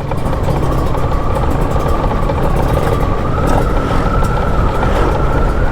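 Kawasaki Ninja 150 RR two-stroke single-cylinder motorcycle running steadily on the move, its engine note edging up slightly midway, over a dense low rush of riding noise.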